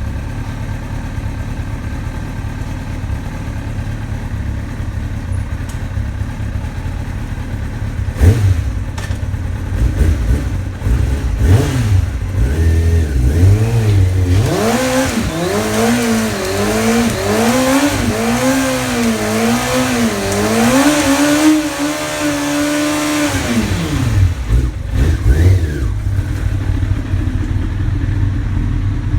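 2002 Kawasaki ZX-6R 636's inline-four engine idling, blipped a few times, then held at high revs in a burnout, its pitch wavering up and down for about ten seconds with a hiss over it, before it drops back to idle.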